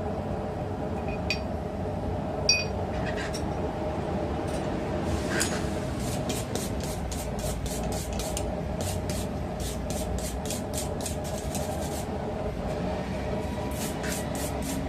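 A forge running steadily, with a run of short rhythmic scraping strokes at about three a second, like filing or wire-brushing steel, from about six to twelve seconds in and again near the end. A few light metal clinks sound in the first three seconds.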